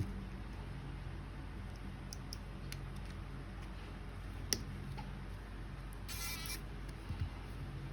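A few small clicks over a steady low hum, with one sharper click about halfway and a brief scratchy rustle a little after six seconds in, followed by two small knocks: small parts and tools being handled.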